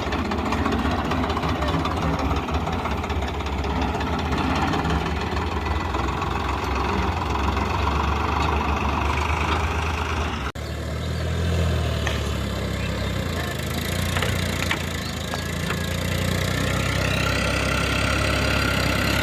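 Tractor diesel engine running steadily with a low knocking throb. About halfway through the sound breaks off abruptly and picks up with a different engine sound.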